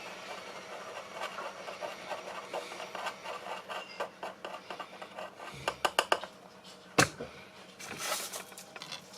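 Bench handwork: rubbing and scraping with many small clicks. A quick run of sharp clicks comes about six seconds in, and one sharp knock about a second later.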